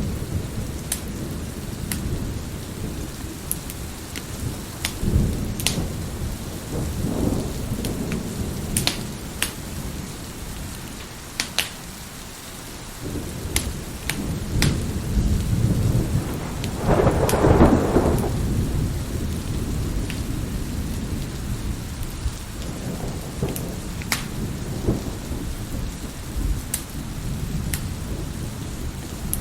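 Wood fire crackling with sharp scattered pops over steady rain and low rolling thunder. A louder thunder rumble swells just past the middle.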